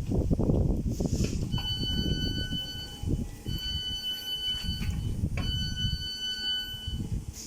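An electronic warning tone sounds three times, each about a second and a half long, over the low rumble of a train at the platform.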